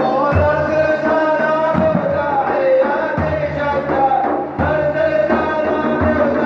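A man singing a madih, an Arabic devotional praise song, in long held, ornamented phrases over deep drum beats that fall about every second and a half.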